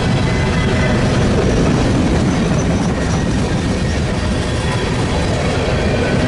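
A train rolling past, a loud, steady rumble of wheels on the rails.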